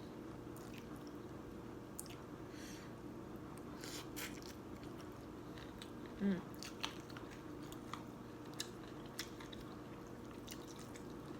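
A person quietly chewing a mouthful of boat noodles, with a few faint clicks and a brief murmur about six seconds in, over a steady low hum.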